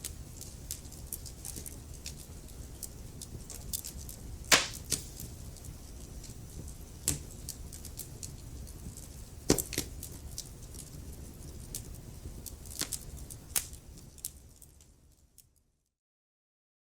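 Wood fire crackling in a fireplace: a steady low rumble of flames with scattered sharp snaps and pops, two louder pops about four and a half and nine and a half seconds in. The sound fades out from about fourteen seconds in and is completely silent near the end.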